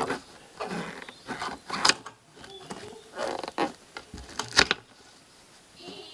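Hands working on a fuel hose in an engine bay: scattered rustles, clicks and creaks of plastic and metal, with a sharp knock about four and a half seconds in.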